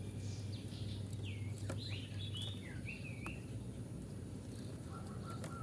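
Birds calling: a run of quick sliding chirps in the first half, then a short run of lower repeated notes near the end, over a steady low hum.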